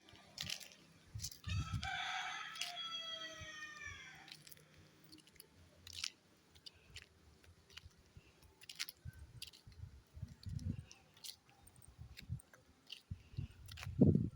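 A rooster crows once, a single long call of about three seconds that drops in pitch at its end. Scattered clicks and low thumps follow, with a louder thump near the end.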